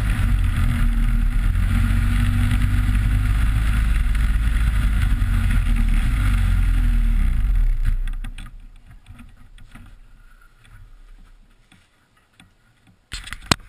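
Snowmobile engine running steadily with wind noise, dying away after about eight seconds, followed by a couple of sharp clicks near the end.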